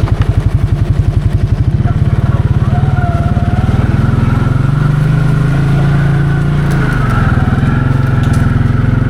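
Can-Am 700 XMR ATV engine running with a rapid, steady pulse as the quad is ridden. It revs up about five seconds in and eases back about two seconds later.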